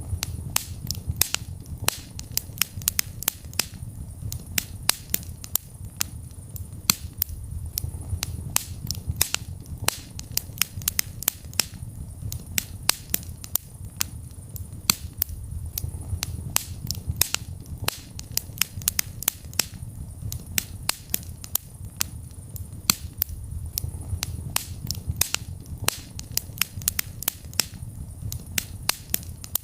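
Wood fire burning in a fireplace: a steady low rumble of the flames with sharp crackles and pops at irregular intervals, several a second.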